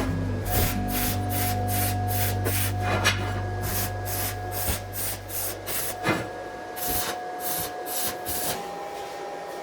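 Repeated scraping strokes of a hand tool working metal, about three a second, thinning out near the end, with background music underneath.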